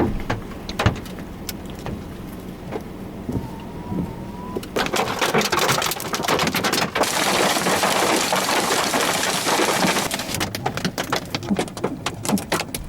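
Hail and rain striking a car: scattered sharp hits at first, a dense hammering downpour from about five seconds in to about ten, then fewer, heavier single stones.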